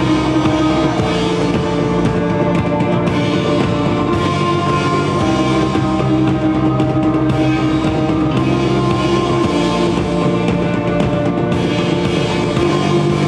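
Live rock band playing an instrumental passage: drum kit beating under held, droning chords.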